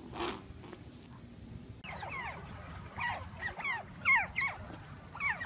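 A group of otters chirping: a rapid run of short, high calls, each falling in pitch, several animals overlapping, starting about two seconds in.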